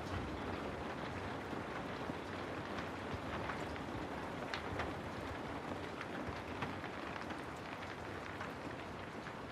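Steady rain: an even hiss of rainfall with scattered individual drop ticks.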